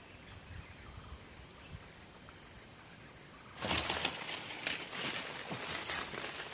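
A steady high-pitched drone, then, about three and a half seconds in, loud crackling and rustling of dry leaves and twigs as someone moves through forest undergrowth.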